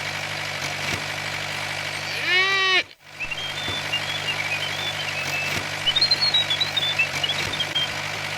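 Steady low engine hum running throughout, briefly cut off about three seconds in. Just before the cut there is a short arching pitched sweep. After it comes a run of short high chirps that wander in pitch.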